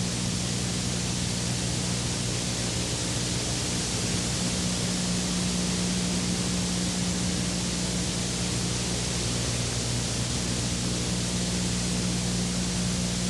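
Steady, unchanging hiss with a low electrical hum.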